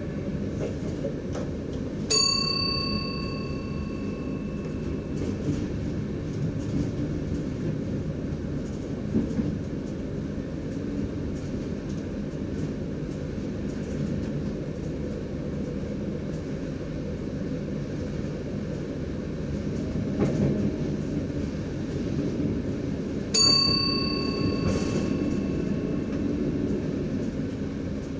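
Cab of a DDZ double-deck electric train running along the line, a steady low rumble. A single chime rings twice, about two seconds in and again near the end, each ring fading over a couple of seconds.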